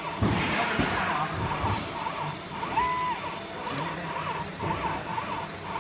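Fiber laser marking machine whining as its scanner marks bird rings, in short rising-and-falling tones with a longer held tone, the pattern repeating about every three seconds. A few low thumps come near the start.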